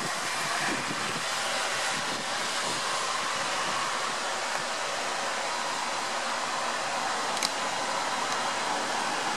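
Steady hiss of light rain falling on the street and roofs, with a single faint click about seven seconds in.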